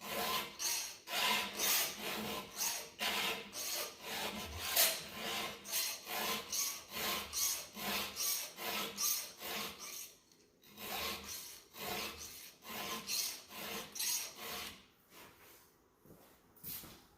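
A file stroking across the cutters of a dull chainsaw chain to sharpen it, in regular scraping strokes nearly two a second. The strokes pause briefly about ten seconds in, then resume and thin out near the end.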